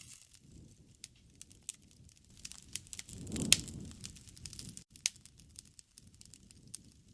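Wood fire crackling, with scattered sharp pops over a low rumble of flame. About three seconds in the rumble swells and one loud pop stands out.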